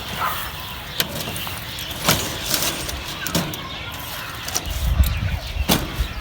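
A few sharp knocks and clicks over a steady background, with a low rumble about five seconds in.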